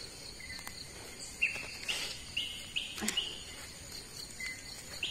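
Forest birds calling: a run of about five short, high whistled notes, roughly two a second, in the middle, with a lone note near the start and near the end. Faint rustles and a couple of small clicks from hands working through leaf litter.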